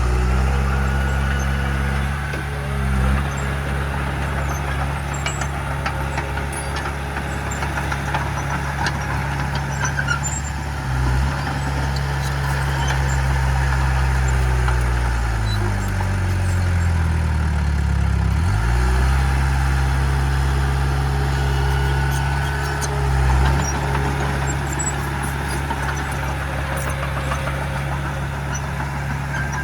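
Heavy diesel engine of an earthmoving machine running steadily. About halfway through, the engine speed sags and then climbs back, with a few short swells in level along the way.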